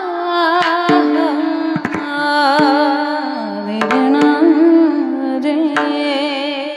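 Devotional kirtan music: a wordless, wavering sung melody over a steady drone, with scattered drum strikes.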